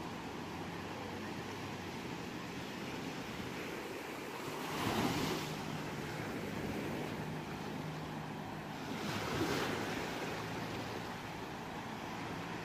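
Ocean waves washing on a shore, a steady surf with two waves swelling louder, about five and nine and a half seconds in.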